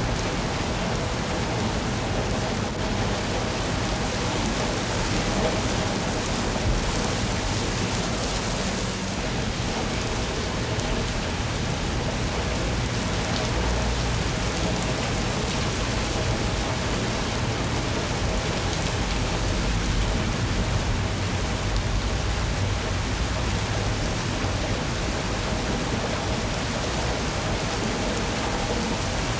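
Steady rain falling and pattering on surfaces, an even wash of noise with a low rumble underneath.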